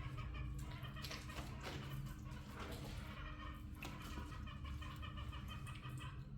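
Chickens clucking in short, repeated calls over a low steady hum.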